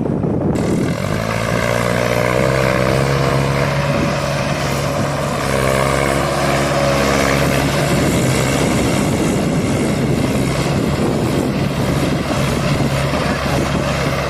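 Heavy diesel engine running loudly and steadily, cutting in about half a second in over wind noise; its pitch wavers slightly through the first half.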